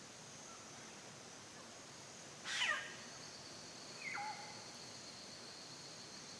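A bird calls twice: a loud call sweeping steeply down in pitch, then about a second and a half later a shorter, quieter downward call, over a steady hiss of forest ambience with a thin high insect-like tone.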